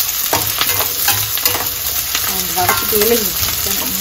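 Chopped onions, green chilies and curry leaves sizzling in hot oil in a stainless steel pan while a metal spatula stirs them, tapping and scraping the pan about twice a second. The onions are being sautéed until golden.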